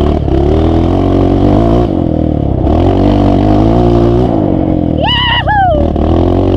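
Off-road vehicle engine revving on a muddy trail, its pitch rising and falling several times as the throttle is opened and eased. A short shout cuts in about five seconds in.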